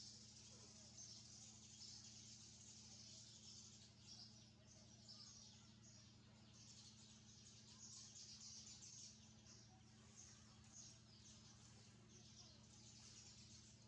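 Faint, rapid high chirping of young birds, many short calls, over a steady low hum.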